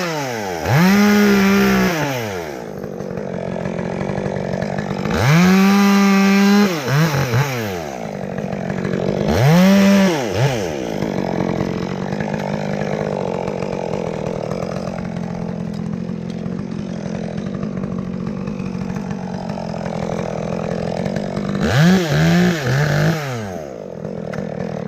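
Chainsaw engine revved up and let back down four times, idling between the bursts.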